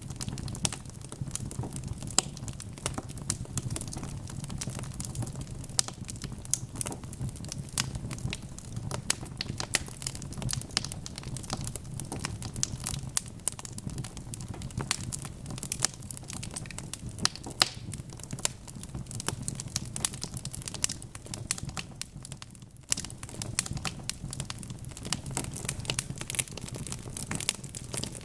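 Wood fire in a fireplace crackling: burning logs giving dense, irregular small pops and snaps over a low, steady rumble of flames, with a brief lull about 22 seconds in.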